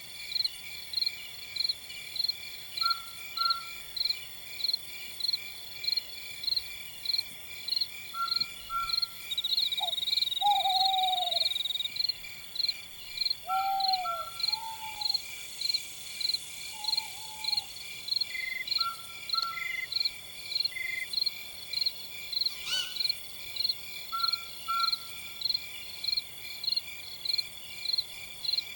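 Night insects trilling in a steady, even rhythm of about two pulses a second. A night bird, the taug txuas, gives short downward-sliding calls a few times in the middle, and short two-note calls repeat every few seconds.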